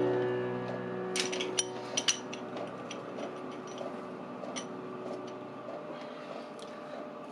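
A sustained music chord rings out and fades away, with a few light, sharp metallic clinks and taps of tools scattered through it.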